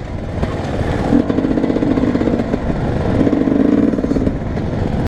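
Motocross bike engines running on the track. The engine note swells twice, about one second in and again about three seconds in.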